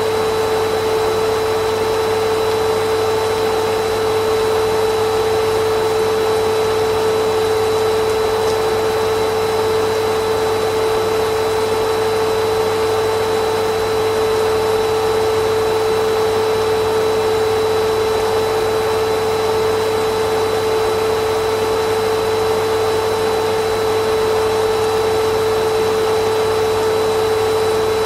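Vacuum cleaner running steadily, its motor giving a constant whine under an even rush of air. The sound does not change.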